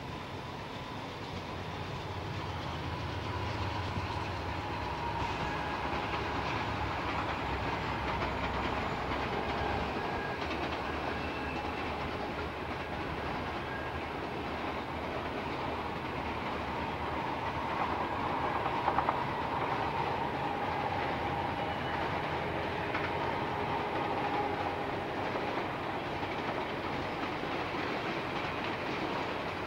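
Double-stack container freight train passing, its cars rumbling and wheels clacking over the rails, with a low rumble in the first ten seconds and a short sharp clank about two-thirds of the way through.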